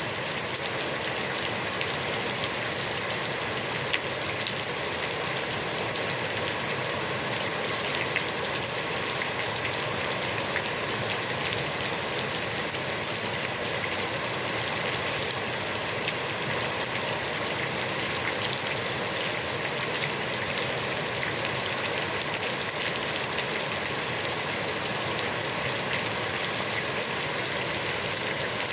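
Heavy rain falling steadily onto a pond's water surface: a dense, even hiss dotted with countless individual drop splashes.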